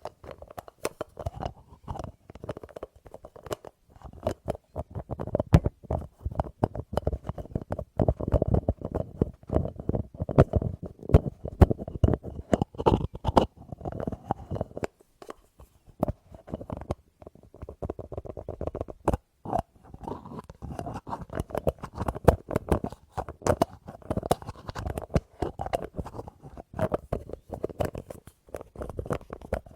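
Rapid, continuous tapping on a small object, many taps a second, with short pauses about halfway through.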